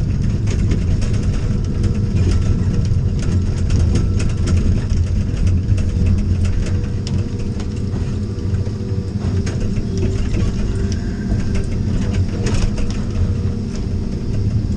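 Vehicle engine running steadily, its sound strongest low down, with scattered light ticks and clicks over it.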